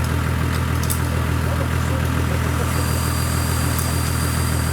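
A 4x4 off-road vehicle's engine idling steadily, with an even low hum that does not rise or fall. A faint high thin whistle joins it a little past halfway.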